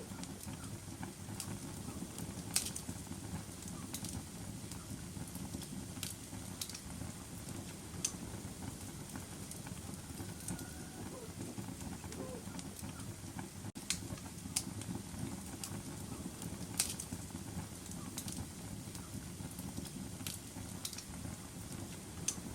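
Wood fire in a fireplace crackling: a steady low rumble of flames with scattered sharp pops and snaps, a few of them louder than the rest.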